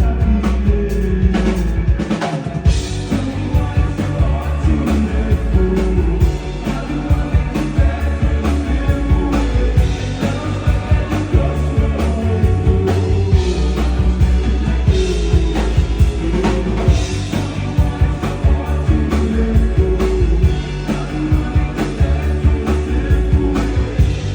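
Live band playing a slow rock song with a drum kit and bass, a singer's voice at times over it.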